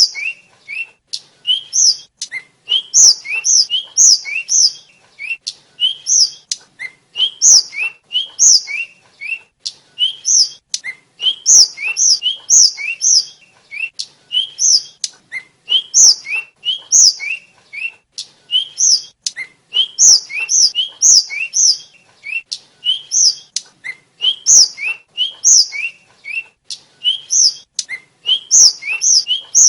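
A flycatcher of the kind kept in Indonesia as tledekan or sikatan singing without pause: a quick string of short, sharp, high whistled notes, each high note answered by a lower one.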